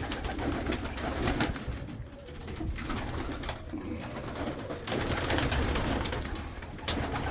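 A flock of domestic pigeons cooing together, with scattered sharp clatters from the birds moving about.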